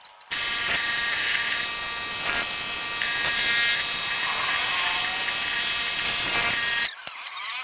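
A small electric motor running at a steady buzzing speed for about six and a half seconds, starting and stopping abruptly.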